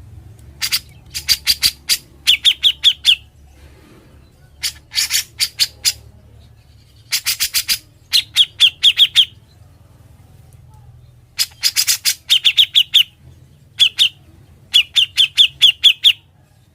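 Grey-cheeked bulbul (cucak jenggot) singing in quick rattling runs: groups of four to six sharp, harsh notes in fast succession, alternating with rapid strings of short downward-slurred whistles, phrase after phrase with brief pauses between them.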